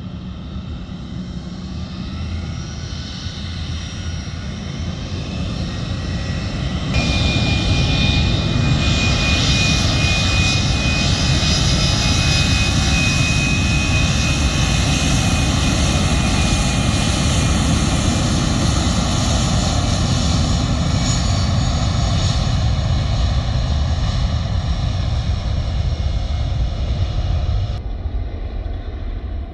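Jet airliner's turbofan engines running loud, a dense roar with steady high whining tones over it. The noise jumps louder about seven seconds in and drops back just before the end.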